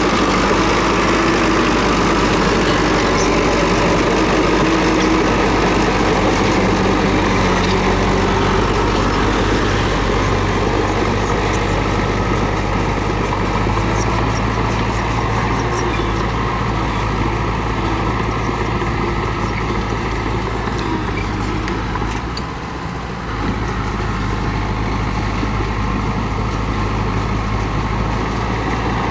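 Komatsu D31P bulldozer's diesel engine running steadily, with faint short clicks partway through. The engine sound dips briefly about three-quarters of the way in, then picks back up.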